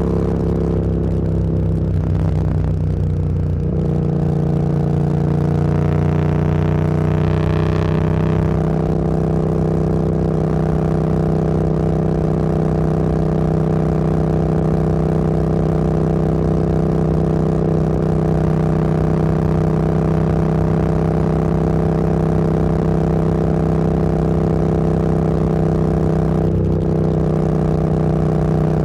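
Motorcycle engine heard from the rider's position while riding. The engine note changes about three seconds in, then holds steady at cruising speed with road and wind noise.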